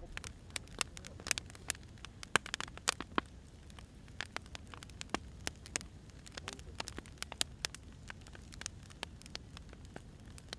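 Firewood burning, crackling steadily with irregular sharp pops and snaps over a low, steady rumble of the fire.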